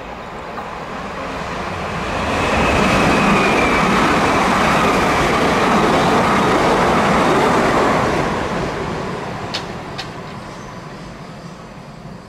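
An electric multiple-unit passenger train passing through the station. Its noise builds, holds loud for several seconds and fades, with a faint high whine that drops slightly in pitch and two sharp clicks near the end.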